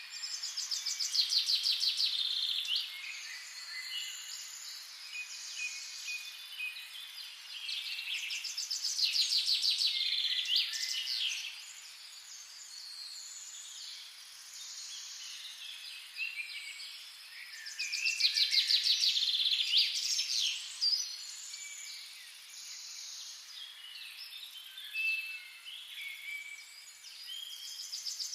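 Birds singing: rapid high trills and chirps that come in louder bouts every several seconds, with nothing low beneath them.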